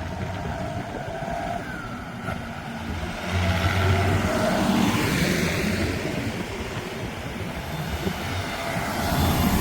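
Tractor engine running, growing louder for a few seconds about three seconds in.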